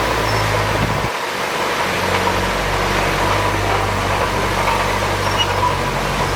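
Heavy diesel engine of earthmoving machinery running steadily, with a short drop in the low rumble about a second in.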